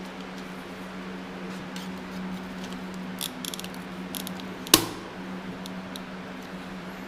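Tools and engine parts being handled on a workbench: a run of light clicks and taps, then one sharp clank just under five seconds in, over a steady low hum.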